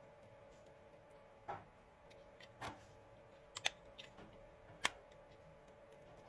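A handful of small sharp clicks and taps, spaced a second or so apart, as the plastic parts of an electric shaver are handled and fitted back together, over a faint steady hum.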